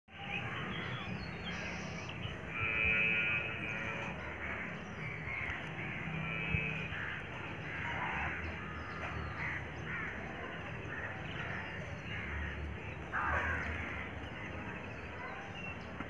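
Birds calling and chirping, many short calls overlapping, with a louder call about three seconds in.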